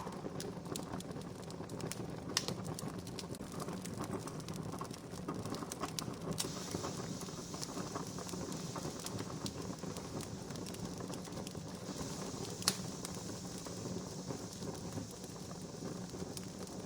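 Wood fire burning with a steady low rustle and scattered sharp crackles and pops, the loudest single pop about three quarters of the way through. A higher hiss joins about six seconds in and holds.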